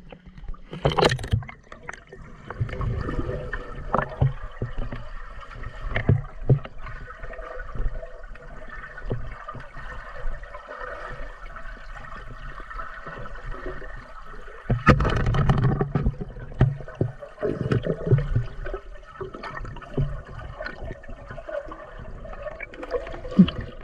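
Water gurgling and sloshing, with scattered knocks and clicks through it, and a louder rush of water about fifteen seconds in.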